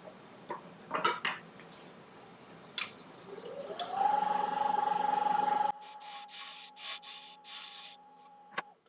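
Wood lathe clicking on about three seconds in, its motor whine rising in pitch and then holding steady, with a turning tool rubbing and cutting against the spinning Iroko platter's rim as a bead is rolled over; the rubbing breaks into short strokes, and the lathe clicks off near the end.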